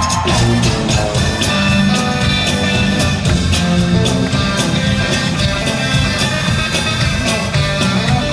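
Live rock band playing an instrumental break between verses, with a steady drum beat.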